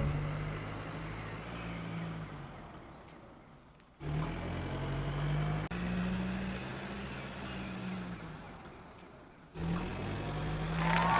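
Mini DIY model tractor's small motor running with a steady low hum. It cuts off and restarts abruptly twice, about four and nine and a half seconds in, and fades between the breaks.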